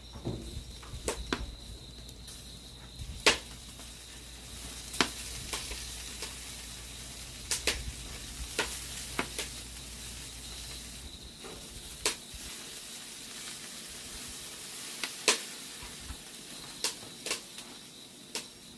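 Shrimp sizzling on a bed of salt in a hot pan. Sharp pops come at irregular intervals as the salt crackles in the heat.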